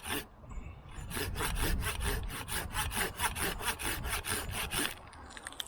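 Hand saw cutting through wood in quick, even back-and-forth strokes, about five a second. A brief run of strokes and a short pause come first, then steady sawing for about four seconds before it stops near the end.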